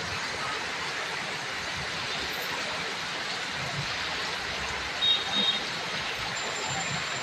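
Heavy rain falling steadily, an even hiss. About five seconds in there is a brief, high double chirp.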